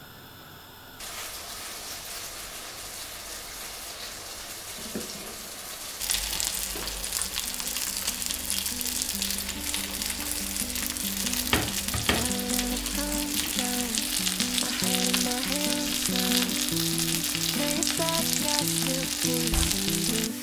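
Food frying in a hot pan: a steady sizzle that gets louder about six seconds in. Soft background music with plucked notes comes in partway through.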